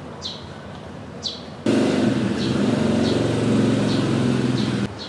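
A bird calls over and over with short, high, falling chirps, about one or two a second. About a second and a half in, a loud rumbling noise starts suddenly and cuts off just as suddenly near the end.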